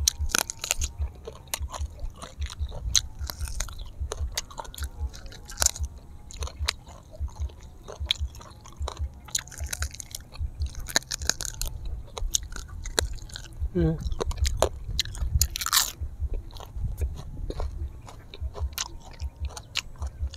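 Close-miked chewing and biting into grilled honey duck, gnawed off the bone by hand: steady rhythmic chewing with frequent sharp crunches and mouth clicks.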